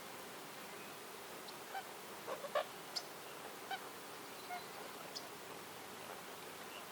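Wild birds calling over a steady background hiss: a quick run of short, lower calls about two and a half seconds in, the loudest sound, then a few brief high chirps scattered through the rest.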